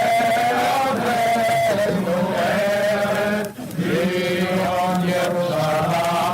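Archival recording of a man chanting Hebrew prayer in long held, wavering notes, with a short break for breath about halfway through.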